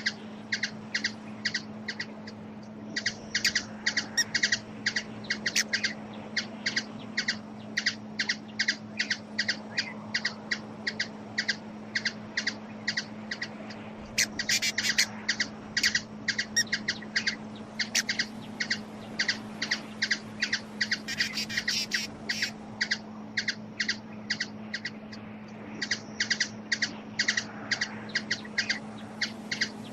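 A small bird giving rapid, repeated sharp chip calls, about four a second, in long runs with a short lull about two-thirds of the way through, over a steady low hum.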